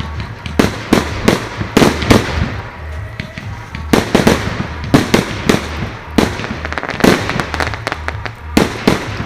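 Fireworks going off: a rapid, irregular string of sharp bangs and cracks, several a second at times, with crackling between them.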